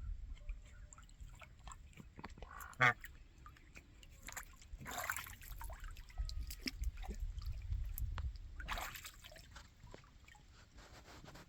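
Ducks splashing and dabbling in a small pond, with water sloshing and trickling in two spells of splashing. A single short call, the loudest sound, about three seconds in.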